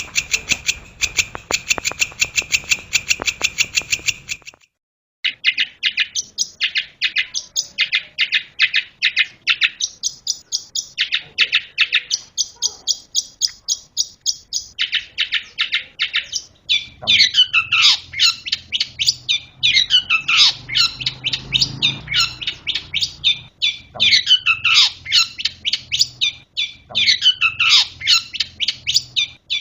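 Cendet shrike singing a fast chattering song of short, rapidly repeated notes, broken off briefly about five seconds in. From a little past halfway the phrases change to quick downward-sweeping notes repeated in bursts.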